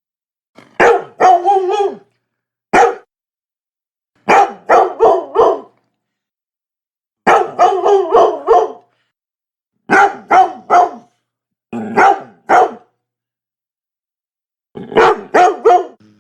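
Labrador barking in quick runs of one to six barks, about seven runs in all, with dead silence between them.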